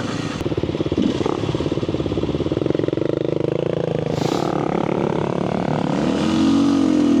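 Kawasaki KLX300R dirt bike's single-cylinder four-stroke engine running under way, its pitch climbing through the middle, then revving up and easing off near the end. A brief hiss or clatter comes about four seconds in.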